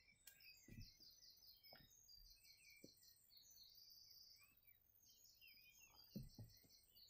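Faint songbirds singing: repeated high trilled phrases and short chirps, with a few soft low thumps.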